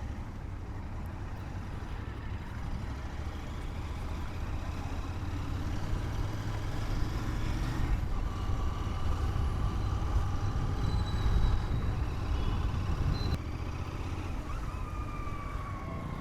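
Motorcycle on the move in road traffic: a steady low engine and road rumble that grows louder towards the middle, with faint higher tones sliding in and out from vehicles around it.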